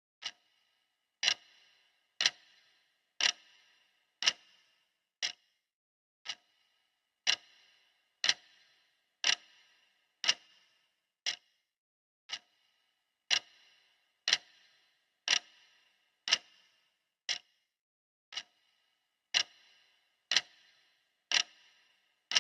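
Clock ticking steadily, one sharp tick a second; some ticks are short and dry, others carry a brief ringing tail.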